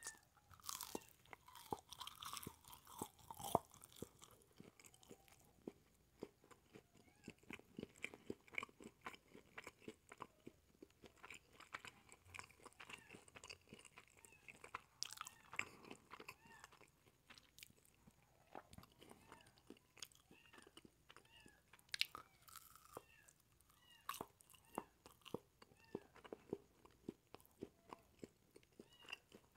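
Close-miked chewing of a crisp quesadilla: a steady run of wet mouth clicks and crunches, with sharper crunches about three seconds in and again about twenty-two seconds in.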